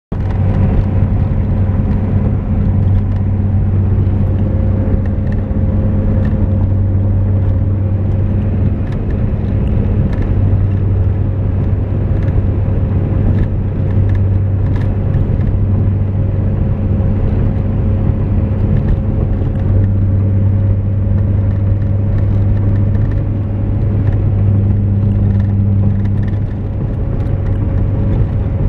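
Car cruising at highway speed, about 100 km/h: a steady engine drone with road and tyre noise, unchanging throughout.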